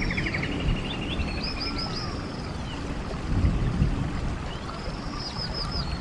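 Stream water running in a steady low rush with songbirds singing over it: repeated trills, quick runs of notes and short falling whistles. A couple of low thuds come about three and a half seconds in.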